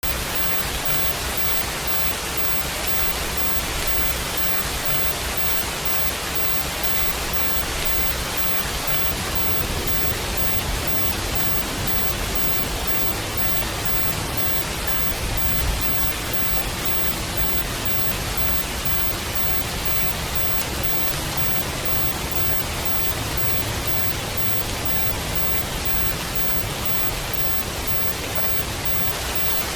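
Steady, unbroken rain: an even hiss without distinct drops or pauses.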